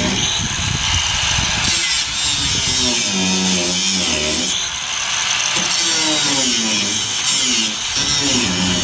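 A power tool cutting through a leaf spring's steel U-bolt, running continuously under load, its pitch sagging and recovering several times as it bites.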